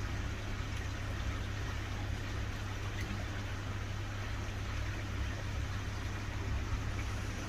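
Koi pond pump and filter running: a steady low electrical hum under an even hiss.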